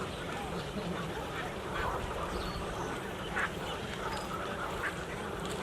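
A large flock of birds calling continuously, many short honking and quacking calls overlapping, over a steady low rumble.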